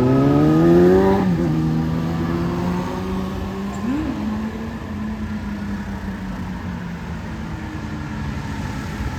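Fire apparatus engine accelerating away, its pitch rising and then dropping sharply about a second in as it shifts gear. It then holds a steady drone as the truck pulls off down the street.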